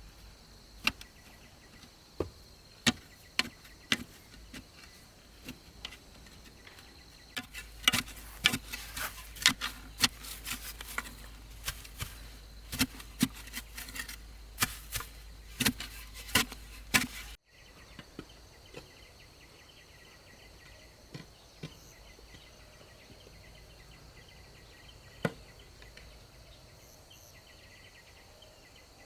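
Sharp knocks of a tool striking wood, scattered at first and then coming quickly and densely for about ten seconds before stopping abruptly. A steady high insect drone runs underneath, and one more knock comes near the end.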